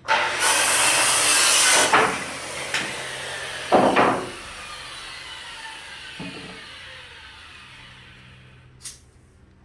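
Power saw cutting through wood for about two seconds, with a couple of knocks, then the blade spinning down with a falling whine.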